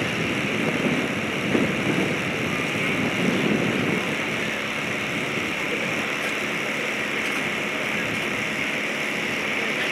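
Clipped-wing Taylorcraft's Continental 85 four-cylinder air-cooled engine and propeller running in flight, heard from the ground as a steady drone.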